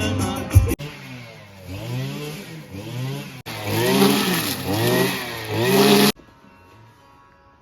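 A small engine revving up and down over and over, about twice a second, cut off abruptly near the end. Background music is heard briefly at the start.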